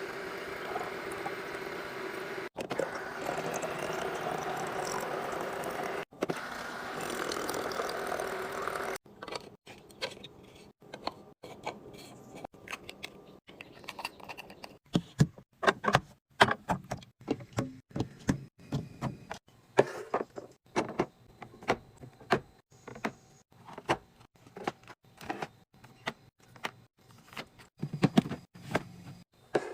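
Food containers and packaging being handled and set into a fridge: quick light clicks, taps and knocks, coming thick and fast in the second half. Before that is a steady, fairly loud hum-like noise that stops abruptly.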